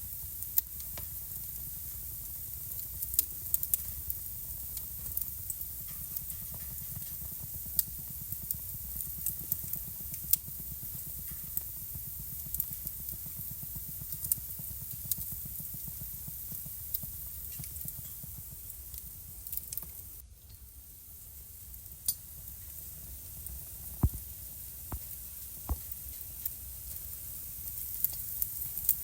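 Wood fire burning in a fireplace: irregular sharp crackles and pops over a steady hiss and low rumble, dipping briefly quieter about twenty seconds in.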